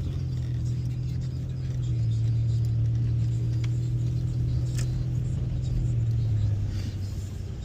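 Car driving, heard from inside: a steady low engine and road drone that grows louder about two seconds in and eases off near the end.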